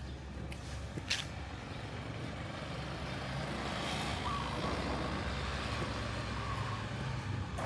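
Street traffic: a steady low engine rumble, swelling in the middle as a vehicle passes.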